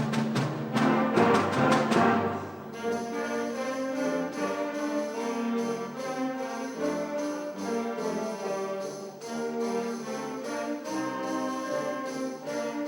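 A middle-school concert band playing, with percussion striking on the beat through a loud passage that drops after about two and a half seconds to softer held chords in the winds and brass.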